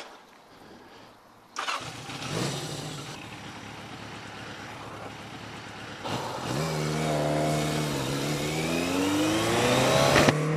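Yamaha XJ750 Seca's inline-four engine. It comes in abruptly about a second and a half in and runs steadily, then rises steadily in pitch over the last few seconds as the motorcycle accelerates.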